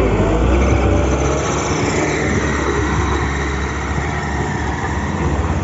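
Heavy diesel engine running steadily, easing slightly about two seconds in.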